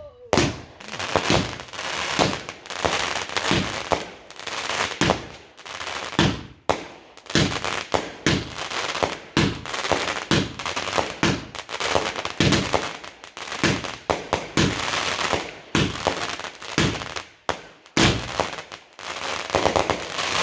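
Fireworks going off in a rapid barrage: many sharp bangs, several a second in places, over continuous crackling.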